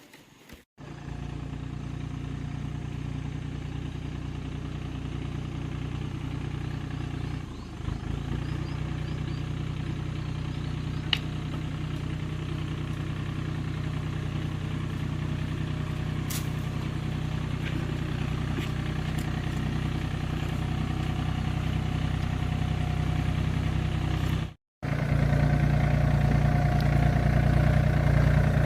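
A motor running steadily at an even speed, with a low, constant hum. It cuts out briefly near the start and again near the end, coming back a little louder, with a single sharp click partway through.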